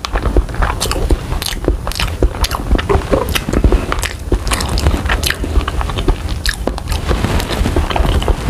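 Close-miked eating of grilled balut: chewing and biting with many sharp, irregular crunches and mouth clicks, and a metal spoon scooping the egg out of its shell.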